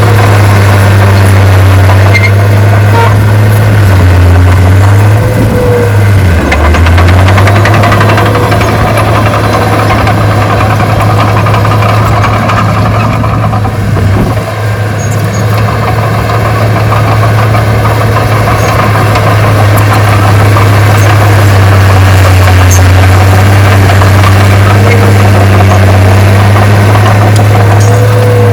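Heavy diesel engine of earthmoving equipment running steadily and loud, its engine note dipping briefly and recovering about five seconds in.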